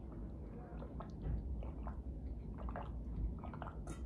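Close-up wet chewing and mouth sounds of a person eating, with small scattered clicks and smacks.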